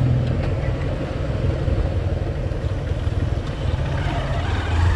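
Hero Hunk motorcycle's single-cylinder four-stroke engine running steadily at low riding speed.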